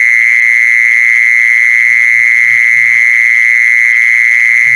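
Jee-sorn insect (แมงจีซอน) calling with one steady, unbroken high-pitched buzz. Faint low croaking sounds come a few times underneath it, about two seconds in and again near the end.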